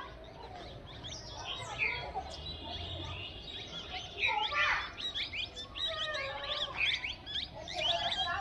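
Small birds chirping busily: many short, quick overlapping chirps and down-sliding tweets, growing denser about halfway through.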